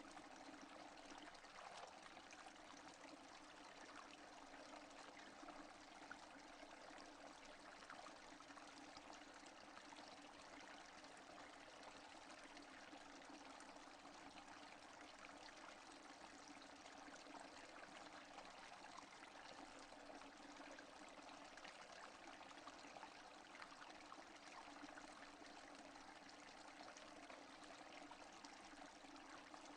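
Faint, steady rain without thunder: an even hiss with scattered soft ticks of drops.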